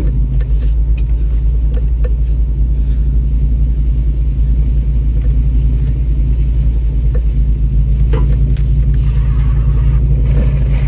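An off-road vehicle's engine running steadily at low speed, heard from inside the cab as a low rumble, with a few light clicks and rattles.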